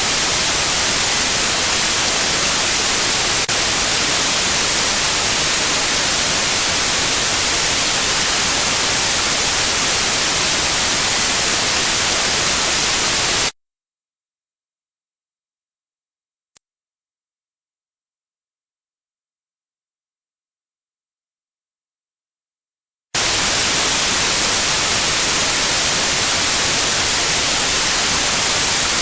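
Synthetic white noise with a steady, very high-pitched 9645 Hz sine tone on top: a tinnitus-therapy signal. About halfway through, the hiss cuts out for roughly ten seconds, leaving the tone alone with one faint click. The hiss then comes back, and the tone stops shortly before the end.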